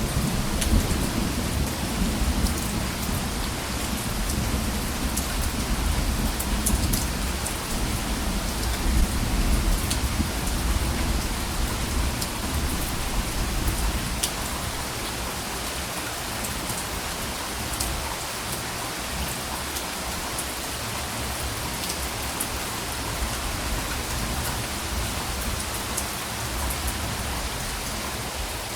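Steady rain pattering on a surface, with scattered individual drops ticking over it. A low rumble of distant thunder runs under the first half and fades out about midway.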